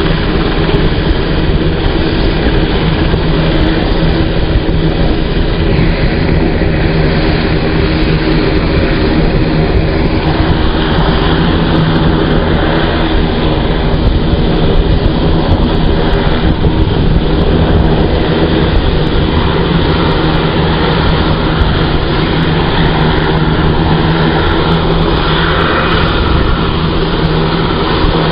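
UH-60J Black Hawk helicopter running on the ground, its twin turboshaft engines and rotors turning at a steady loud pitch with no change.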